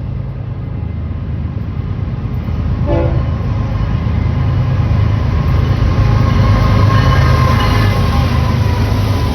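Train on the line, its low rumble growing steadily louder as it approaches, with faint steady tones over the top in the second half.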